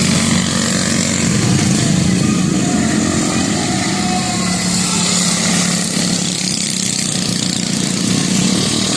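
Several mini bike engines running hard as the bikes race around the track, a steady engine drone with pitches shifting as bikes go by.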